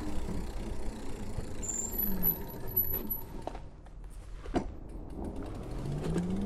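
Electric bike's motor whining over tyre and wind rumble while riding, its pitch falling about two seconds in as the bike slows and rising again near the end as it speeds up, with a couple of short clicks in between.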